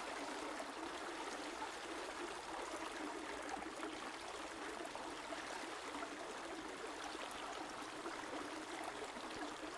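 Steady flowing stream or river water, an even rushing and trickling.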